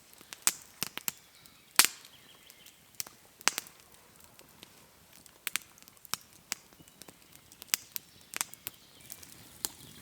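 Campfire wood crackling, with scattered sharp pops at irregular intervals.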